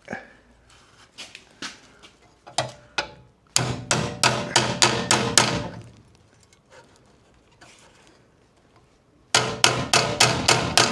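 Hammer blows on car body steel, breaking the last small tab that holds a rusted radiator support cross member. A few single knocks come first, then two quick runs of sharp, ringing strikes, about four a second.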